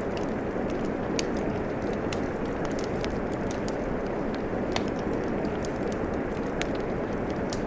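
Steady rain mixed with a fireplace fire crackling. Scattered sharp pops stand out, the clearest about a second in, near the middle and near the end.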